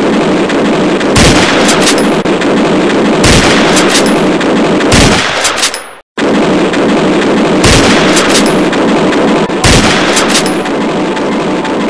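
Battle gunfire sound effect: a dense, continuous roar of rapid fire with louder single shots standing out every second or two. It cuts out for an instant about six seconds in, then resumes.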